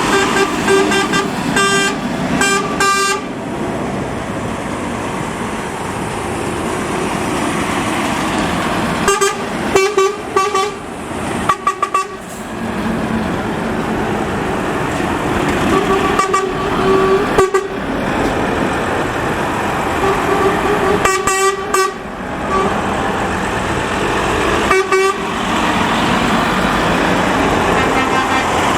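A convoy of trucks going past, their engines and tyres running steadily, with truck horns sounded again and again in clusters of short toots.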